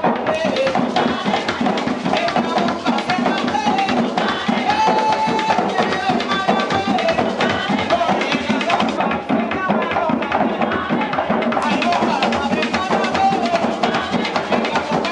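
Puerto Rican bomba drums played by hand in a steady rhythm, with a voice singing over the drumming.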